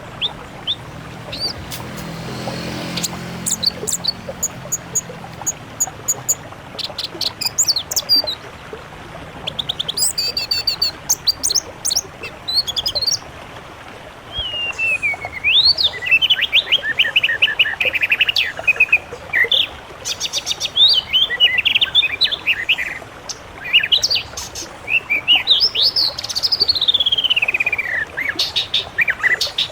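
Songbirds singing over a steady hiss. Sharp high chirps and rapid clicking trills come first, then from about halfway longer whistled phrases with rising and falling slurs and stuttering trills.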